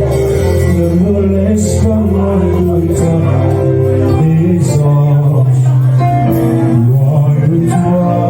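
Slow worship music from a live band, with sustained bass and keyboard chords and light cymbal strokes. A male voice sings over it in places.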